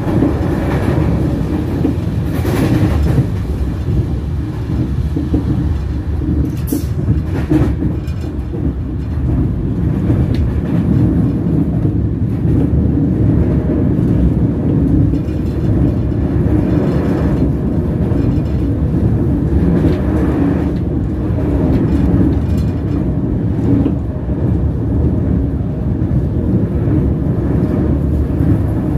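Train wheels running on the rails: a steady, loud rolling rumble with a few sharp clicks.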